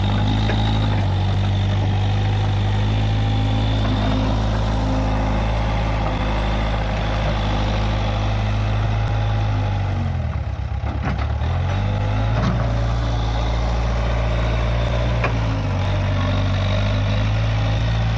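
Case 580G backhoe loader's engine running steadily, its speed dropping briefly about ten seconds in and then picking back up.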